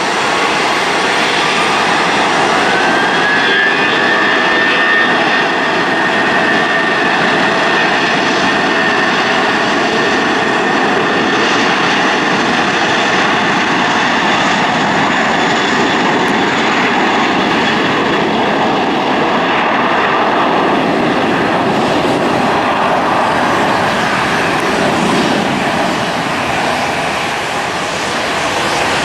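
Jet airliner's engines running loud and steady, with a high whine that rises about three seconds in and then holds.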